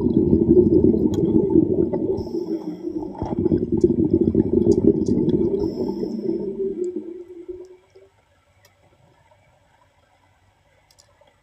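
Water bubbling and gurgling in a low, fluttering rush that dies away about eight seconds in, followed by a few faint clicks.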